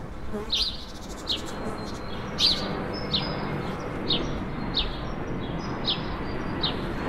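A bird repeating a short chirp that falls in pitch, about one every 0.7 seconds, over a steady low background noise.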